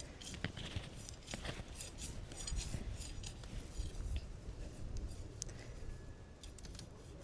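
Hand trowel digging and scraping in soil, deepening a planting hole, with scattered scrapes and light clicks throughout.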